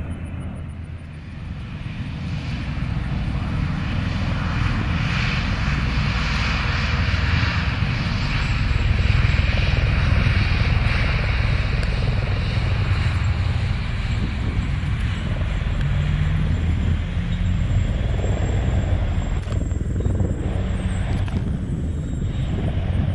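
Military aircraft engine and rotor noise, a steady loud drone with a deep low hum, swelling over the first couple of seconds and then holding.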